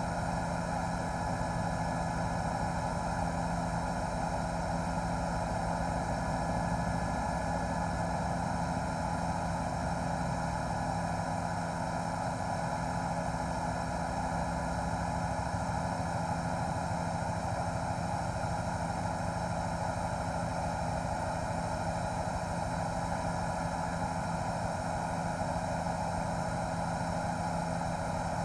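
News helicopter's rotor and turbine engine running steadily in flight, a constant droning hum with no change in pitch or level.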